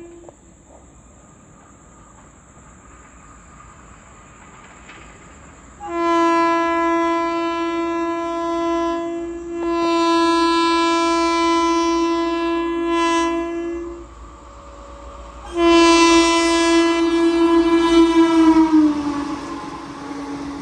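Indian Railways electric locomotive's air horn sounding two long blasts as a train approaches at speed: a steady multi-tone horn for about eight seconds, briefly dipping partway through, then a second blast that drops in pitch as the locomotive passes.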